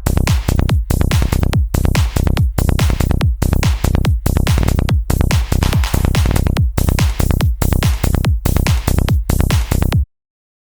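Analog modular synthesizer effect in a psytrance style. A repeating synth hit plays about twice a second, each one a falling filter sweep over a steady deep bass. It cuts off abruptly near the end.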